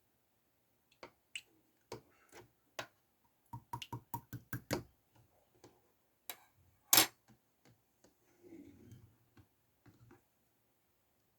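Sharp clicks and taps of containers and lids being handled while setting up to make slime: a quick run of clicks about three and a half to five seconds in, the loudest single click about seven seconds in, and a soft rustle just after.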